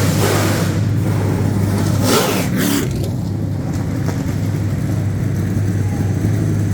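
V8 stock car engines idling with a steady low drone as the cars roll out at low speed, with two louder swells, one near the start and one about two seconds in, as cars pass close by.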